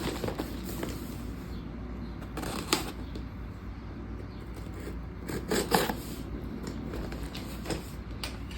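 Packaging being handled and opened: intermittent rustling and crinkling of paper and cardboard, with a few sharper crinkles, over a low steady hum.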